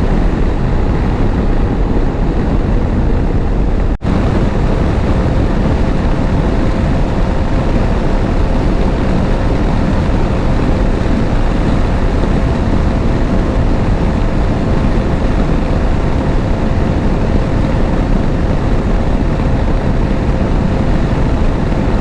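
Motorcycle riding at highway speed: steady engine drone under heavy wind rush on the on-bike microphone. The sound drops out for an instant about four seconds in.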